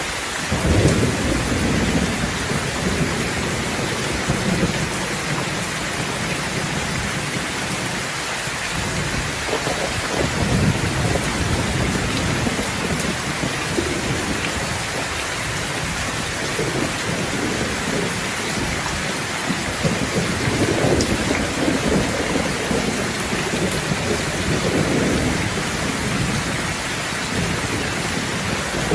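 Heavy rain falling steadily with rolls of thunder. A low rumble builds about a second in, another comes around ten seconds, and a longer one runs through the second half.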